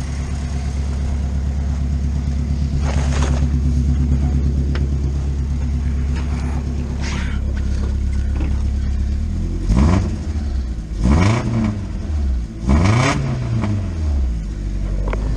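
Avenger car engine idling steadily just after a cold start, its first run in about six months, then revved three times in quick succession near the end, each rev rising and falling back to idle.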